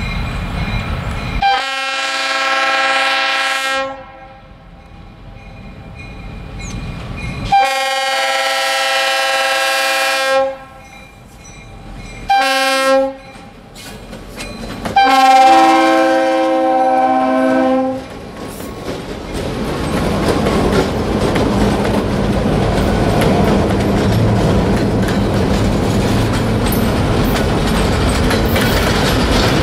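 Diesel locomotive air horn, a multi-note chord, sounding the grade-crossing signal: long, long, short, long. From about 19 seconds in, the locomotives and a string of flatcars roll past with a steady rumble and wheels clicking over the rail joints.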